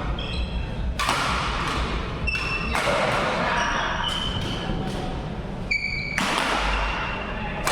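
Badminton rally: sharp racket strikes on the shuttlecock at irregular intervals, with short high-pitched squeaks of court shoes on the floor between them.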